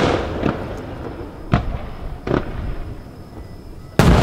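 Aerial firework shells bursting: sharp reports about half a second, a second and a half, and two and a quarter seconds in, then a loud bang near the end, each trailing off in a rumbling echo.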